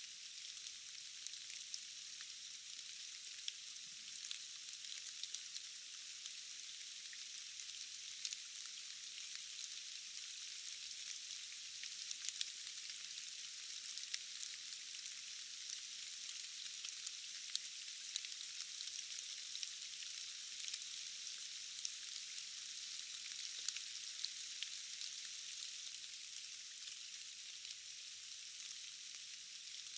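Steady rain falling in a forest: an even, high hiss with many small drop ticks scattered through it, and almost no low rumble.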